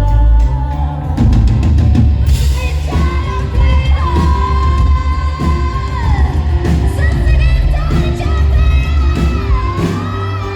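Live rock band with a female lead singer over drums and bass, loud and dense as heard from the crowd. The singer holds a long high note through the middle and another near the end.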